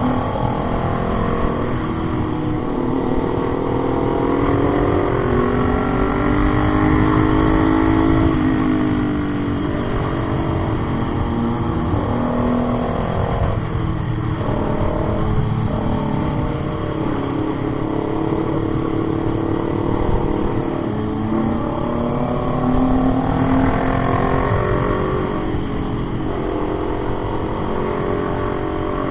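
Motorcycle engine running under way, its pitch climbing and dropping again several times as it accelerates and changes gear, with steady wind rumble on the microphone.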